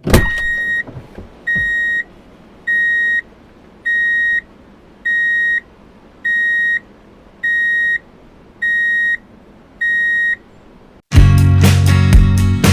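Electronic beeper sounding nine even, high-pitched beeps, each about half a second long and roughly one every 1.2 seconds. About 11 seconds in, loud music with a heavy bass begins.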